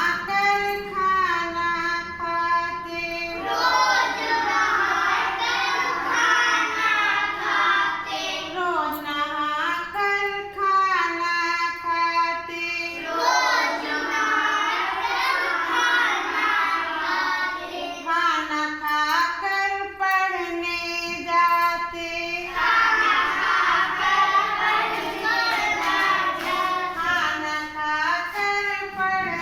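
Children singing a Hindi nursery poem to a simple melody, with long held notes.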